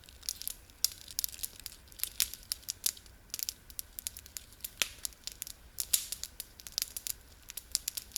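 Candy wrapper crinkling and tearing as a sweet is unwrapped by hand, a quick irregular run of sharp crackles.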